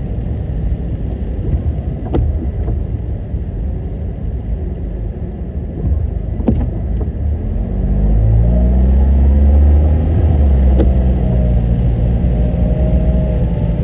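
Car driving, with a low rumble of road and engine noise. About eight seconds in, the engine revs up as the car accelerates and gets louder. There are a few faint clicks.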